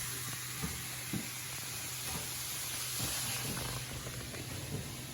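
Minced beef sizzling steadily in a frying pan on a fairly high heat, as it browns. A steady low hum runs underneath, with a couple of faint clicks.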